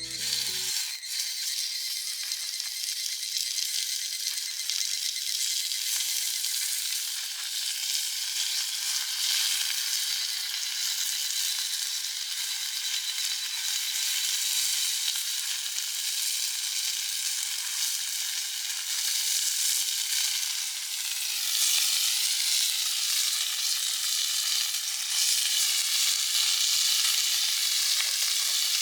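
Fillet steak sizzling steadily in a hot pan, a continuous frying hiss that grows a little louder about two-thirds of the way through.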